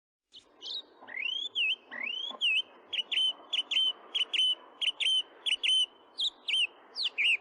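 A bird singing: two rising whistled notes, then a quick run of short, clear whistled notes about two or three a second, over a steady hiss.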